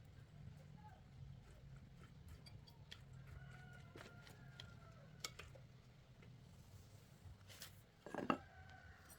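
Faint scattered clicks and light taps, with a louder knock a little before the end, over a low steady hum.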